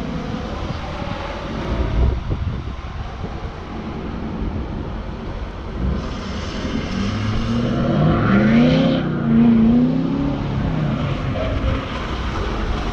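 Tuned, emissions-deleted Ford 6.7 Powerstroke V8 diesel of a Super Duty pickup running with a rumble, then revved up and down two or three times about seven to ten seconds in.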